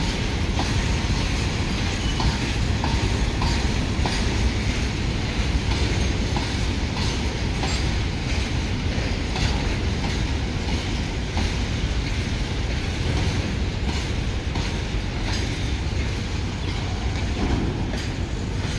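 A long rake of BCNHL covered goods wagons rolling past. The wheels clatter over the rail joints in an irregular run of clicks over a steady low rumble.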